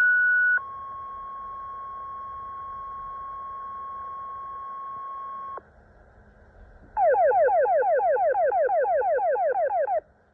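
Fire department radio dispatch tones: a short high steady tone steps down to a lower tone held for about five seconds, a sequential two-tone pager activation. After a short pause, about three seconds of rapidly repeating falling sweeps, roughly seven a second, sound as an alert warble.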